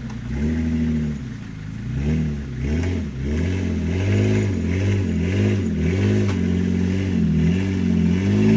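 Toyota Land Cruiser J70's 3.4-litre V6 engine under load, crawling through a deep rut. It revs up and down over and over, in quick throttle blips about twice a second from about two seconds in.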